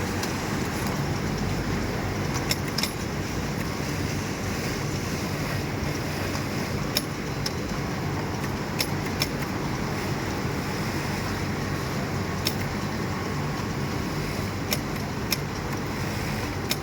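Industrial sewing machines running in a garment factory, a steady hum of motors, with sharp clicks every few seconds.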